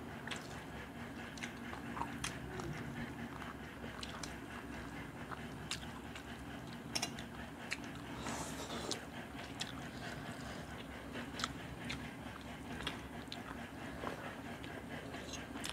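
Close-up eating sounds of fish curry and rice eaten by hand: chewing and biting, with many scattered sharp mouth clicks over a steady low hum.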